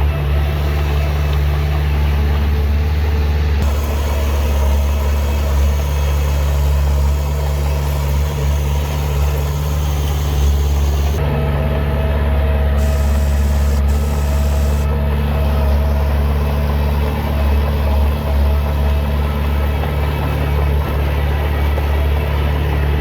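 Heavy diesel engine of earthmoving equipment running steadily, a constant low drone with no clear changes in speed.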